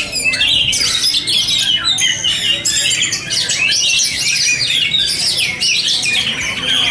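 Several oriental magpie-robins (kacer) singing at once in a dense, unbroken chorus of overlapping whistles, trills and chirps, the sound of a kacer singing contest.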